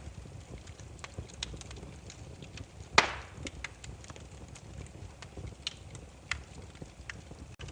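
Burning firewood crackling, irregular sharp pops over a low steady rumble, with one loud snap about three seconds in.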